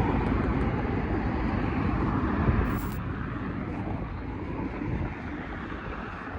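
Street traffic: a vehicle's rumble and tyre noise, loudest at first and slowly fading as it passes away. There is a short click about two and a half seconds in.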